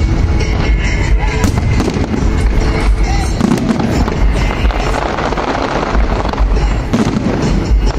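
Aerial fireworks going off in quick succession with repeated bangs and crackles, over loud accompanying music.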